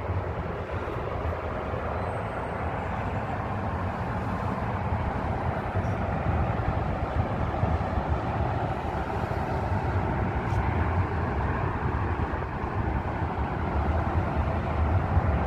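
Steady, even rumble of road traffic mixed with sandstorm wind.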